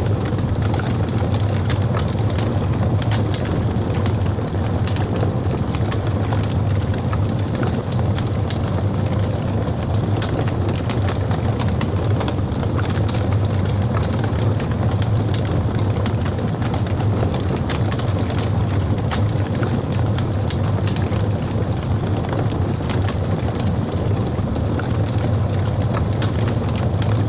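Fire crackling, with scattered sharp pops and snaps over a steady low rumble.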